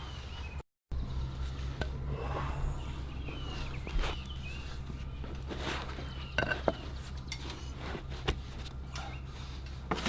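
Scissors cutting away excess rubber pond liner, with a few short sharp snips and clicks scattered through, over a steady low hum.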